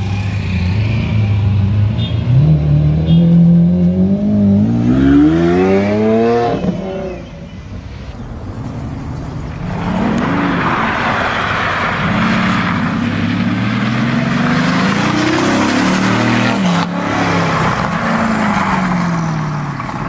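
Supercar engines: a Lamborghini Aventador's V12 running low and steady, then revving up hard as it accelerates away, cut off abruptly about seven seconds in. After that, a Mercedes-AMG GT's V8 revs up and down several times over a steady rushing noise.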